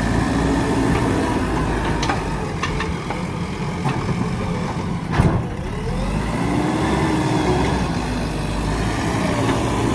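JCB backhoe loader's diesel engine running under varying load, its pitch rising and falling in slow swells as the machine works. A single sharp knock about halfway through.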